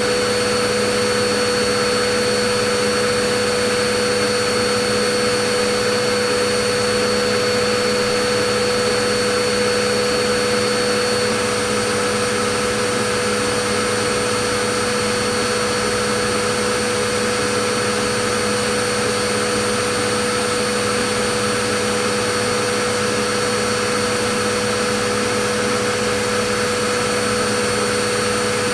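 Vacuum cleaner running continuously: a steady rushing noise of its motor and airflow with a constant hum and a high whine. The sound stays even, with no change in speed.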